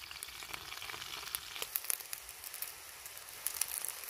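Chicken pieces frying in oil in a cast-iron skillet: a steady sizzle with many small sharp pops.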